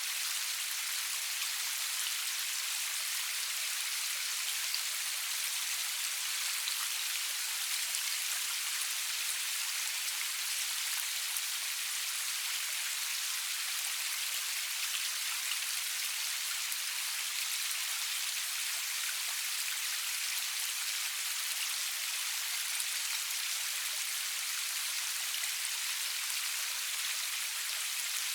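Steady rain falling, a dense even hiss of many small drops with no thunder.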